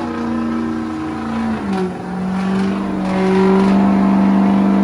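Diesel truck engine held at high revs. Its pitch drops a little about two seconds in, then holds steady while it grows louder.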